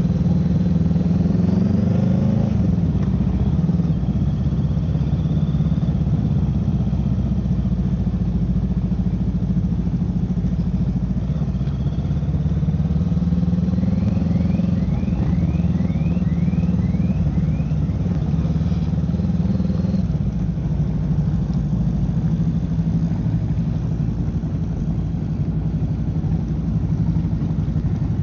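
Motorcycle engine running at low speed, rising in pitch briefly near the start and again about halfway through as it pulls away.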